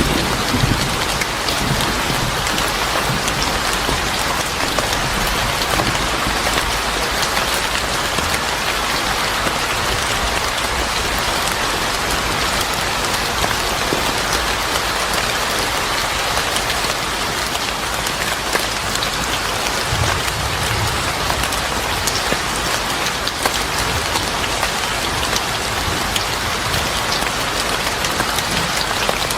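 Steady heavy rain falling, with low rolls of thunder at the start and again about two-thirds of the way through.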